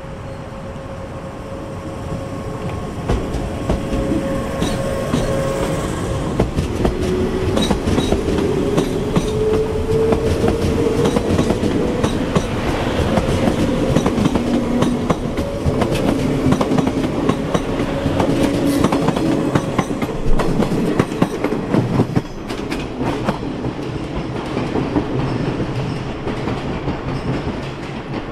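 381-series limited express electric train in Super Yakumo purple livery pulling out of the station and running past. Its motor hum rises in pitch as it gathers speed, and the wheels clickety-clack over the rail joints; the sound swells over the first few seconds and stays loud as the carriages go by.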